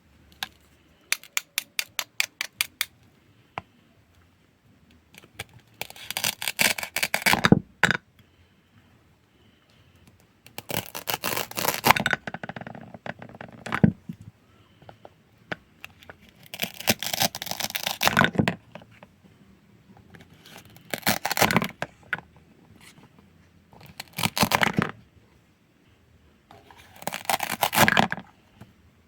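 Food being cut: a quick run of about eight clicks near the start, then repeated crackly scraping, tearing cuts lasting a second or two each, with short pauses between them.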